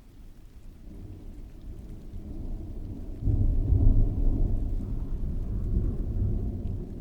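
A long roll of thunder: a deep rumble that builds, swells suddenly a little past the middle, then slowly rolls away, over steady rain falling outside an open window.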